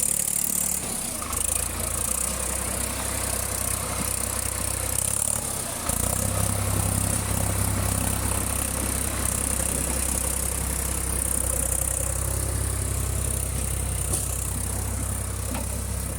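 Tractor diesel engine running steadily; about six seconds in its low note shifts and becomes fuller and slightly louder.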